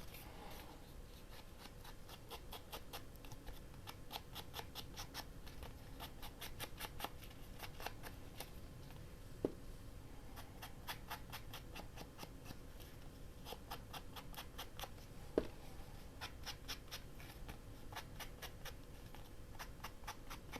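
Ink being applied to the edges of a paper tag, rubbed and dabbed on in quick, closely repeated strokes, with two sharper light taps about nine and fifteen seconds in.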